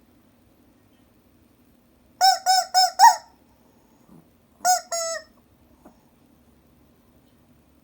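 Chicken toy giving a run of four quick, squeaky clucks, then two more a couple of seconds later.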